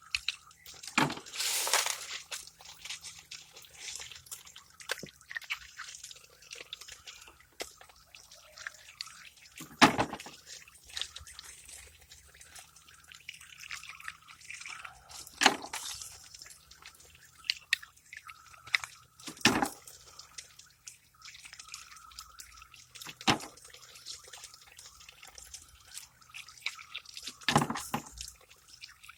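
Water dripping and trickling inside a refrigerator converted into a fish-tank filter as it is cleaned, with about six sharp, louder sounds spread through.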